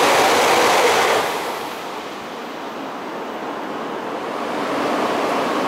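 An E5-series Shinkansen passing through the station at speed: a loud rushing noise of air and wheels that falls away about a second in, leaving a softer steady hiss.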